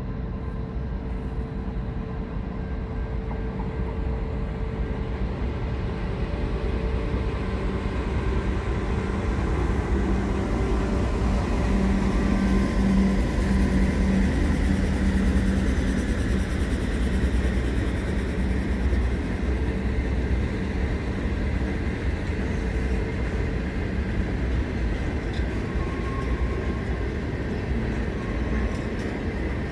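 Diesel-hauled freight train passing. A steady locomotive engine hum and low rolling rumble grow to their loudest about halfway through as the locomotives go by, then ease a little as the wagons roll past.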